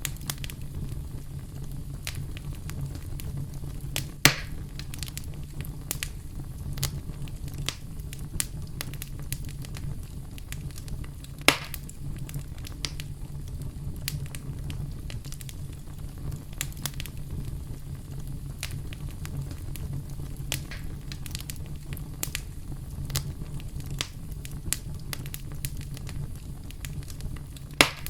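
Wood campfire crackling, with a steady low rumble and frequent small pops throughout. Three sharper, louder pops stand out: about four seconds in, near the middle, and at the very end.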